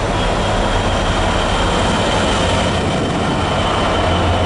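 GB Railfreight Class 66 diesel locomotive running through non-stop with a freight train of empty wagons, its two-stroke V12 engine giving a loud, steady low drone, with a thin high whine above it.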